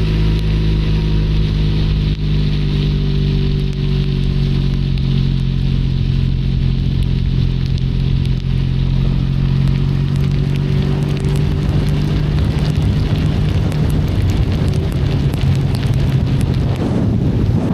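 Benelli Leoncino 500 Trail's parallel-twin engine running at steady revs under way, with the hiss and patter of rain and wet road. The engine note shifts briefly about a second before the end.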